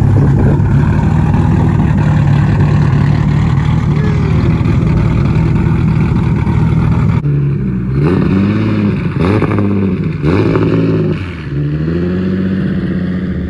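Nissan 350Z's V6 engine running loud and steady, then revved in four quick blips, each rising and falling, in the second half.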